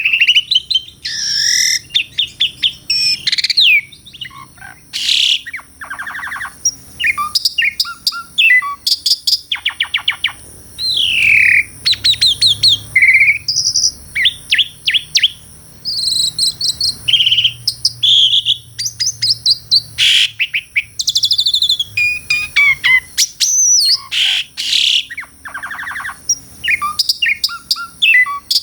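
Asian pied starling (jalak suren) singing a long, varied song: whistled notes gliding up and down, fast rattling trills and harsh chattering notes in quick phrases with short pauses between them.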